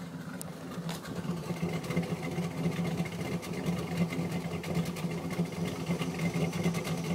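Dodge Ram pickup's engine idling roughly, its running uneven and unsteady. This is the rough idle behind the truck's check engine light.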